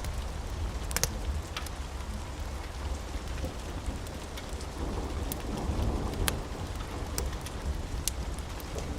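Steady rain with a low thunder rumble underneath, the rumble swelling for a couple of seconds past the middle, and a few scattered sharp pops.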